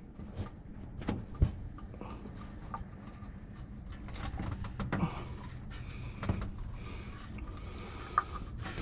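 Scattered light knocks and clicks from handling, with one sharper knock about a second and a half in, over a steady low hum.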